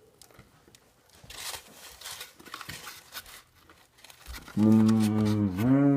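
Soft clicking and crinkling of food being handled and chewed, then a man's loud, low hummed groan with his mouth closed, starting about four and a half seconds in, dipping once and going on again near the end.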